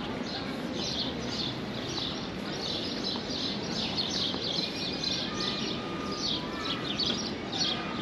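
Small birds chirping repeatedly in short, high, falling notes, several a second, over steady background street noise.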